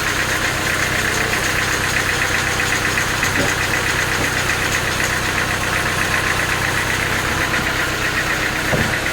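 Sawmill machinery running steadily: a continuous machine drone with a fine rapid pulsing and no change in pitch or level.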